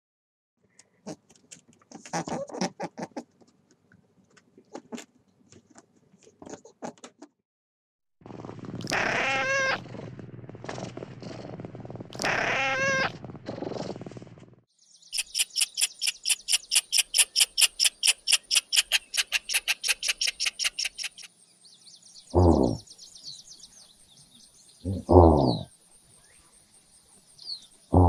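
A run of different animal sounds. First come soft clicks and short squeaks, then a cat meows twice in long calls. A fast, even, high pulsing chirr follows, then steady high chirping with three short, low, falling calls.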